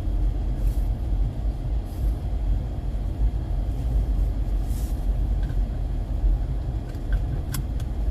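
A car driving, heard as a steady low rumble of engine and road noise, with a few short clicks near the end.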